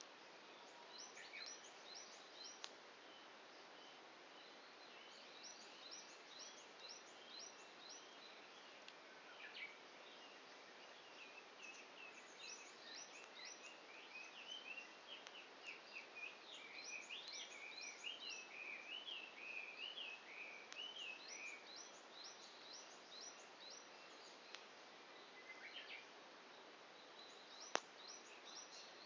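Faint songbirds singing in phrases of quick, high, falling chirps, with warbling phrases through the middle, over a quiet hiss. Near the end a campfire gives one sharp pop, the loudest sound.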